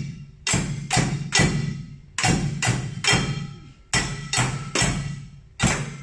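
Improvised household percussion, such as pots and a bucket, struck with sticks together in a repeating three-hit pattern, a group of three strikes about every second and a half. Each strike rings briefly.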